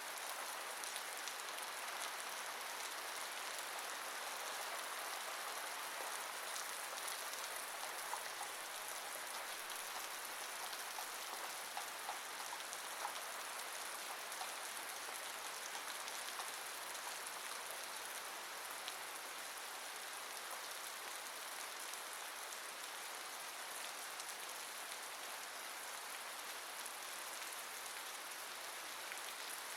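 Steady rain falling: an even hiss, with a few separate drop ticks standing out about a third of the way in.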